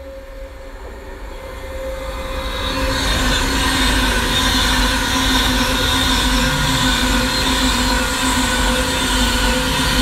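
Class 390 Pendolino electric train approaching and passing at speed: the rush of wheels and air grows over the first three seconds, then holds loud and steady with a low hum underneath as the carriages go by.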